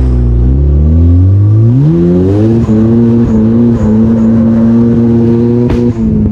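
Turbocharged Mazda Miata engine revving up over a couple of seconds and held at steady high revs, with a single sharp pop near the end and a brief dip in revs just after it.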